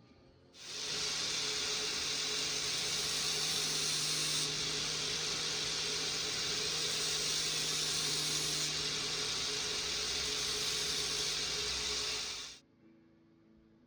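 A power tool running steadily with a hiss over a low motor hum for about twelve seconds, starting about half a second in and cutting off abruptly.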